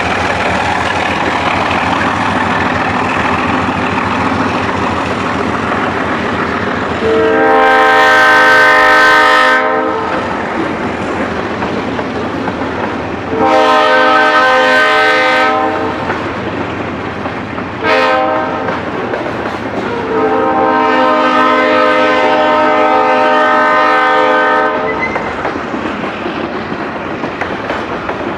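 ALCO diesel locomotive blowing its air horn in the grade-crossing pattern: long, long, short, long. Underneath is the steady rumble of the locomotive and the train rolling along the track.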